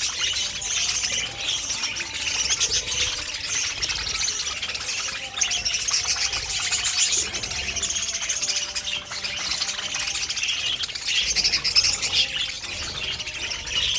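Budgies chirping and warbling continuously, a dense steady chatter of many overlapping calls.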